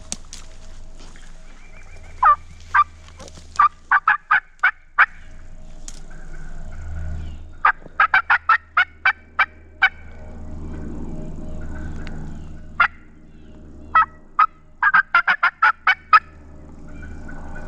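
Turkey yelping: runs of short, sharp notes, a few to about ten at a time, repeated several times, with a low steady rumble underneath.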